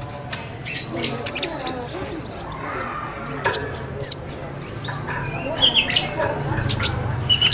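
Small songbirds chirping and trilling in quick, varied phrases. Two loud, sharp downward-sliding whistles stand out a little before halfway.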